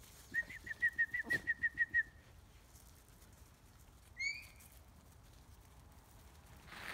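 Bird calling: a quick run of about ten short, even whistled notes on one pitch, then a single rising whistled note about four seconds in.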